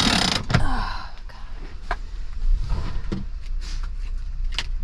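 Light knocks and clicks of things being handled over a steady low rumble, with a short hiss right at the start.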